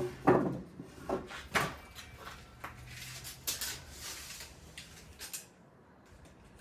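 Irregular knocks and clatters of objects being handled and set down, about eight in five seconds, the loudest in the first two seconds, stopping a little past five seconds in.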